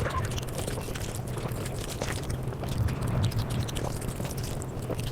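A person chewing and eating close to the microphone, with many quick, irregular mouth clicks over a steady low hum.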